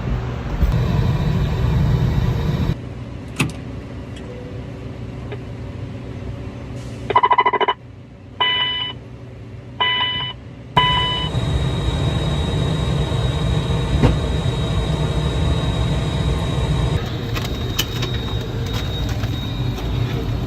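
Steady low rumble of airplane noise, broken by abrupt cuts. Midway it drops back, and four short runs of electronic beeping tones sound over it before the rumble returns.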